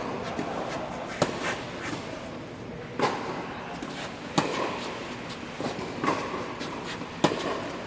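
Tennis rally: a ball struck back and forth with rackets, a sharp pop every second or two, about five in all.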